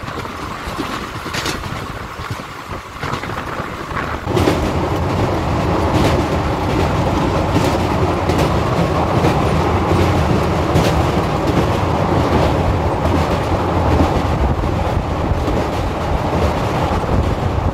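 Darbhanga Express running at speed, heard from on board: a steady rumble of wheels on track with irregular clacks from the rail joints. It gets suddenly louder about four seconds in and stays that way.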